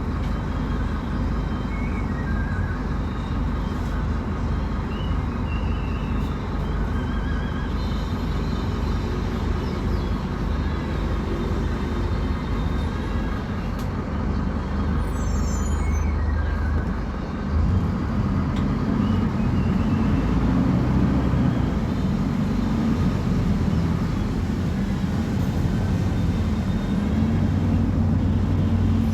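Scania K250UB bus engine running steadily, with a short dip in level about two-thirds of the way through, after which it runs louder.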